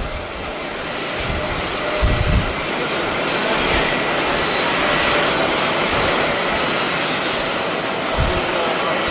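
Jet airliner passing, a steady rush of engine noise that swells to a peak about halfway through and eases slightly, with a faint whine at its loudest. A gust of wind buffets the microphone about two seconds in.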